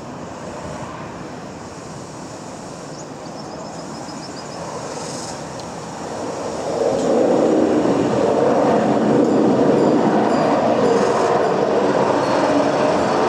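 Bangkok Airways turboprop airliner coming in to land. Its engine and propeller noise builds gradually, then grows loud about seven seconds in and stays loud as the plane passes close.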